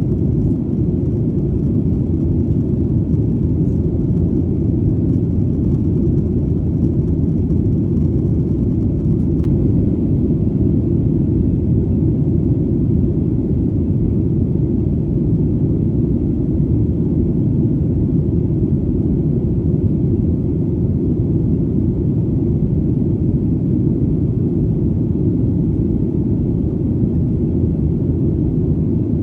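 Steady, deep rumbling drone of an airplane in flight, unchanging throughout.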